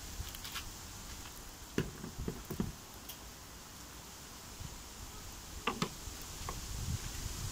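Faint sizzling of meat frying in a cast-iron pot over a wood fire, with a few scattered pops and soft knocks around two seconds and six seconds in.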